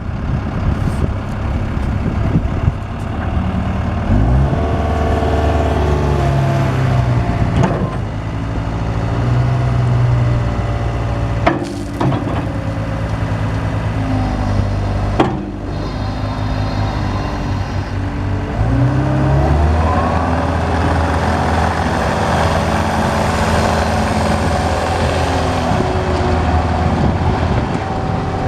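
Cat 279C compact track loader's diesel engine running, its speed rising and falling several times, with a higher whine that climbs about twenty seconds in. Two sharp knocks come near the middle.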